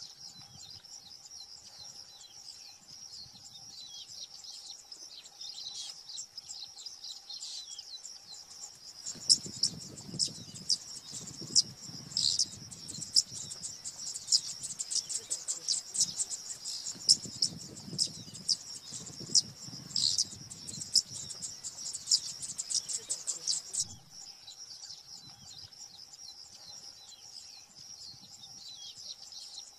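Small birds chirping densely and high-pitched, over a faint steady hum. About nine seconds in, the chirps turn louder and sharper over a low rumble, and this settles back about twenty-four seconds in.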